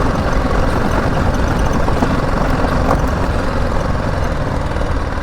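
BMW G 310 GS motorcycle's single-cylinder engine running steadily while the bike is ridden slowly, under a steady low rumble of road and wind noise.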